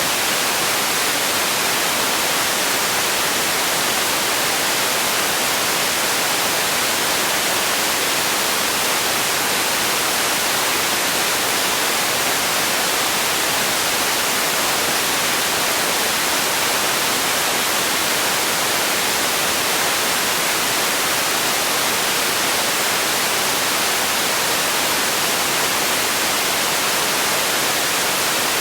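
Steady white-noise-like hiss, even and unchanging, bright and airy with little bass.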